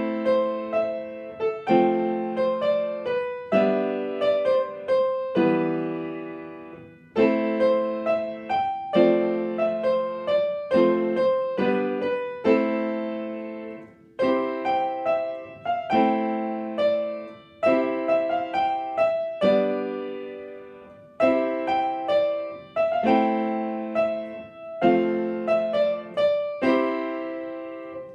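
Solo piano playing an original piece: chords and melody in short phrases, the piece starting right at the beginning, with several phrases ending on a chord that is left to ring and fade before the next one begins.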